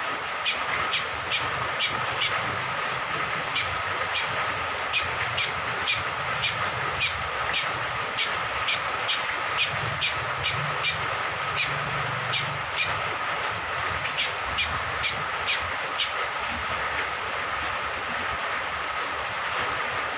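Cucak kombok (kecial kombok) honeyeater calling in a rapid run of short, sharp notes that drop in pitch, about two or three a second, stopping about three-quarters of the way through. Under the calls runs a steady rushing noise of falling rain water.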